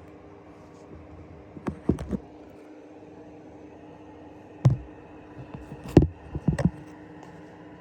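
A few sharp knocks and clicks in small clusters: three together about two seconds in, one near the middle, then several close together toward the end. A steady low hum runs underneath.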